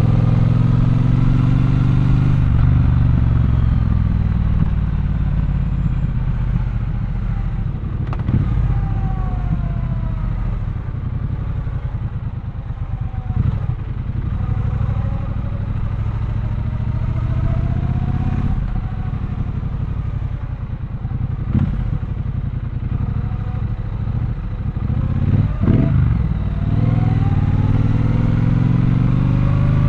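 Triumph Bonneville Bobber's 1200 cc parallel-twin engine running under way, its revs rising and falling several times as the bike accelerates and eases off, with a few brief sharp sounds along the way.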